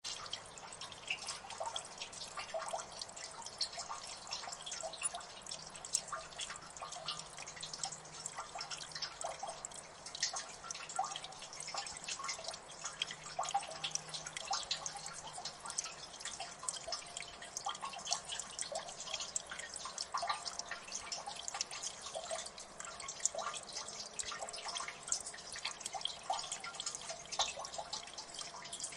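Water dripping steadily in a gully: many small overlapping drops falling into water, several a second, over a faint hiss.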